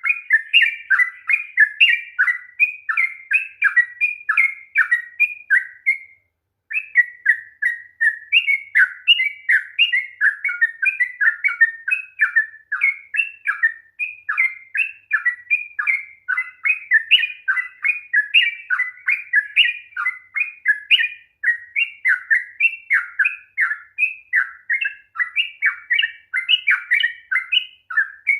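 Yellow-vented bulbul singing a long, fast, unbroken run of chirping notes, with one short pause about six seconds in.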